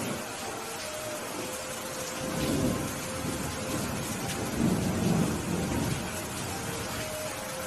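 Steady rain with thunder rumbling, in two low rolls: a shorter one about two and a half seconds in and a louder, longer one about five seconds in.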